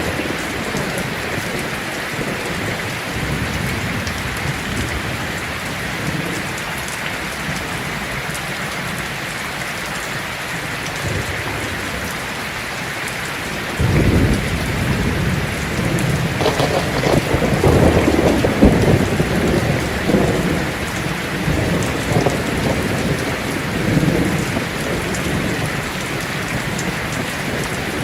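Heavy rain falling steadily on a tin roof. About halfway through, thunder breaks suddenly and rumbles on for several seconds.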